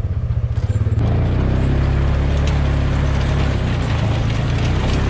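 Polaris RTV utility vehicle's engine running as it drives across a field, with a steady low drone; from about a second in, rattling and clatter join it.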